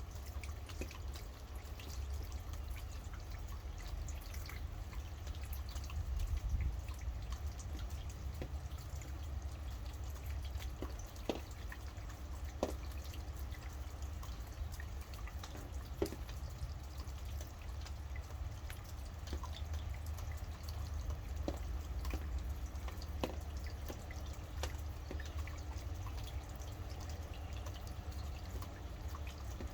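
Rain dripping: many separate drops tick and patter over a steady low rumble, with a few louder drops standing out now and then.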